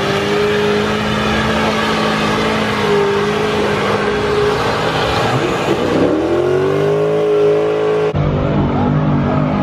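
Car engine revving hard and held at high revs, its pitch dropping and then climbing again about five to six seconds in; the sound changes abruptly near the end.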